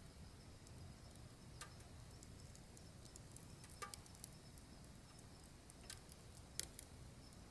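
Wood fire crackling softly: scattered sharp pops and snaps over a low steady rumble, the loudest pop a little before the end.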